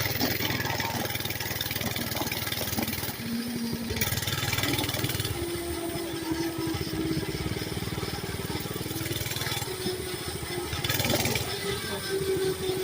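Mini bike's small engine running while being ridden, its note shifting a few times with the throttle.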